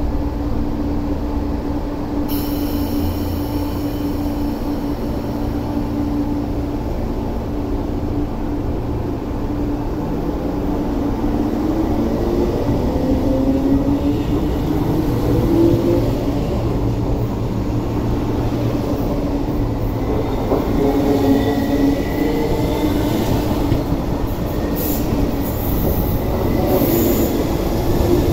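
East Rail line electric commuter train pulling out of the station. A steady hum at standstill and a hiss that starts about two seconds in give way to a motor whine that rises in pitch as it gathers speed, with rolling wheel and rail noise as the cars pass.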